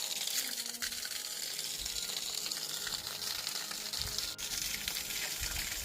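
A steady hissing noise, with a few faint low thumps in the second half.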